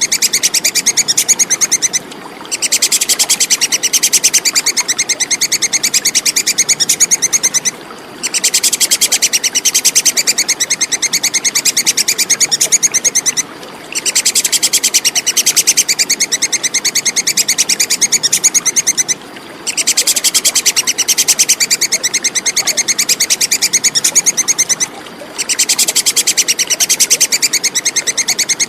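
Squirrel's 'kekes' chattering call: a fast, high-pitched rattle of sharp chips, repeated in bouts of about five and a half seconds with a short break between each bout.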